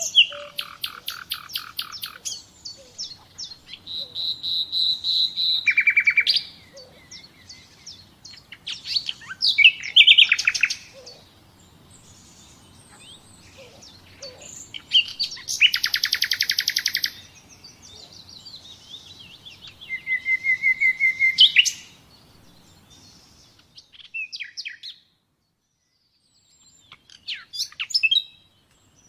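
Songbirds singing in turn: rapid trills, quick runs of repeated notes and short high whistled phrases, over a faint steady background hiss. About four fifths of the way through, the hiss and song cut out for a couple of seconds of near silence, then a few short chirps follow.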